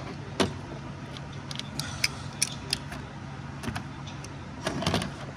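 Scattered light clicks and clinks of hand tools and engine parts being handled, a few at a time, over a steady low hum.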